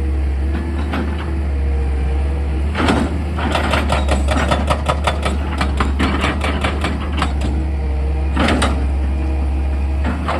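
Excavator diesel engine running steadily with a deep hum. In the middle comes a rapid run of knocks, about six a second for some four seconds, and there are two louder surges, near the start and near the end.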